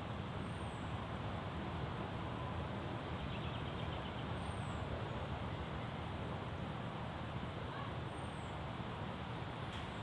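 Steady low rumble and hiss of a running car, with a faint short high chirp about every four seconds.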